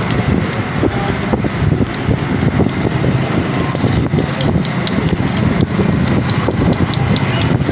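Steady motor-vehicle engine noise, with many light clicks and knocks over it.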